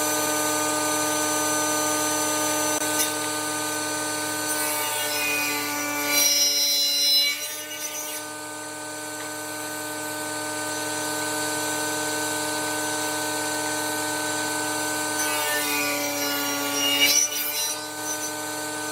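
Wood lathe running with a steady motor whine while a turning tool scrapes and cuts the spinning wood. The whine dips slightly in pitch under the cut about five to eight seconds in, and there are louder scraping bursts around six seconds in and near the end.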